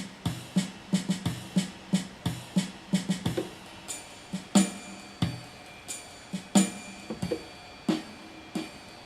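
Yamaha PSR-350 keyboard playing its built-in Vienna Waltz accompaniment style: a drum-machine pattern of evenly repeating kick and snare hits in waltz time.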